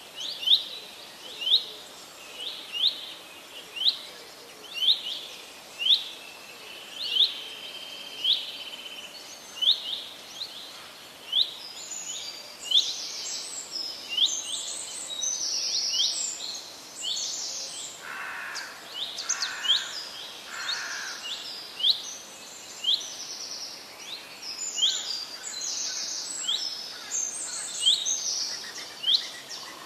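Birds chirping: one bird repeats a short, sharp rising chirp about once a second. From about a third of the way in, busier, higher-pitched chirping from other birds joins it, and a few lower calls come about two-thirds through.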